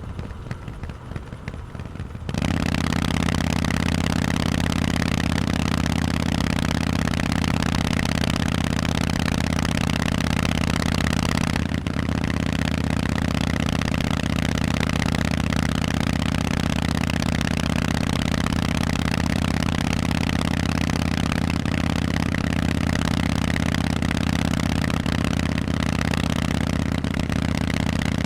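Harley-Davidson Forty-Eight's air-cooled V-twin engine through Vance & Hines exhausts, running at a steady, unchanging pitch. It comes in suddenly louder about two seconds in, and there is one short dip near the middle.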